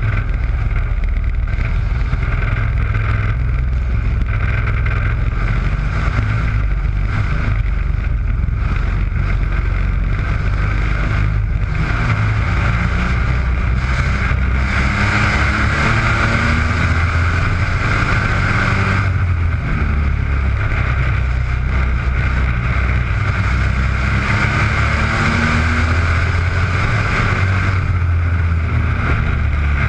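Engines of mini trucks racing around an oval track, running hard without a break, with their pitch rising repeatedly as the trucks accelerate.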